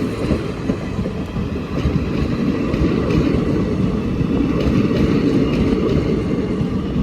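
Express passenger train passing at high speed: a steady heavy rumble of wheels on rail, with a rapid clatter of wheels over the rail joints.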